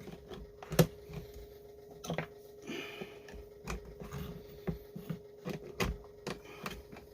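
Irregular small clicks and taps of chainsaw parts being handled and fitted by hand while the throttle lever is worked back into place, over a steady hum.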